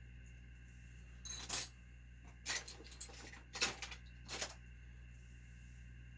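Small metal engine parts and hand tools clinking and tapping against each other: four short bursts of clicks and clatters, the loudest about one and a half seconds in.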